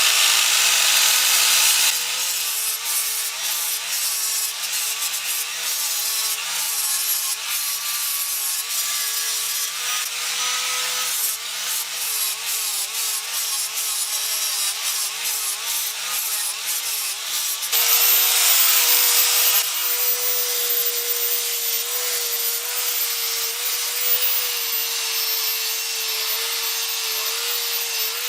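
Electric angle grinder grinding down steel weld beads on an exhaust pipe; the motor's whine sags and wavers as the disc is pressed into the metal, then runs steadier.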